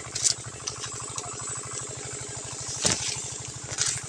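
A small engine running steadily at idle, a fast even low pulse, with a few dry crackling rustles over it, the loudest about three seconds in.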